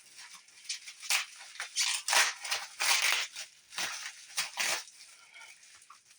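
Plastic bubble wrap crinkling and rustling in irregular bursts as it is pulled off the unit, loudest between about two and five seconds in.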